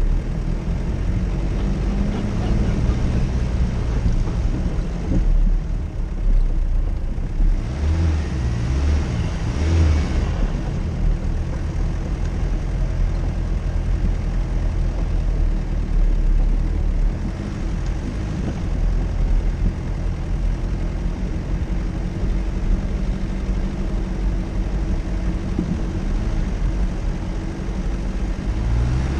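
Off-road vehicle's engine running steadily under load with a low rumble; the engine note shifts briefly about eight to ten seconds in.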